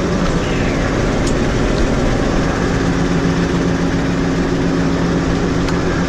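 New Holland 6080 tractor's diesel engine idling steadily, with a couple of faint clicks.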